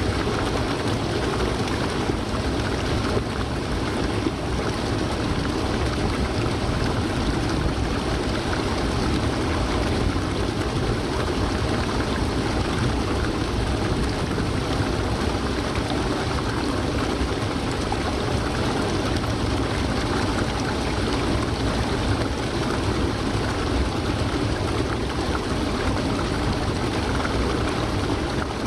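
Waterfall rushing steadily: an even, unbroken wash of falling water with no change in level.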